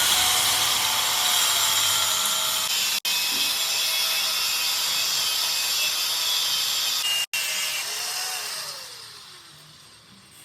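A power tool running on metal with a steady high-pitched hiss and whine, briefly cut off twice, then winding down with falling pitch and fading near the end.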